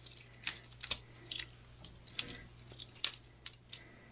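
Boker Plus balisong butterfly knife being flipped, its handles and blade clacking together in quick, irregular clicks, about ten over a few seconds.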